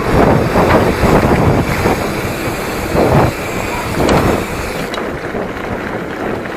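Wind buffeting the microphone while a hardtail mountain bike rides downhill over rough trail, with its frame and drivetrain rattling and several knocks from bumps.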